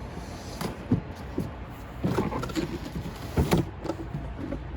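Packaging of a boxed RC boat being handled during unboxing: irregular knocks, scrapes and rustles, busiest in the middle and again about three and a half seconds in.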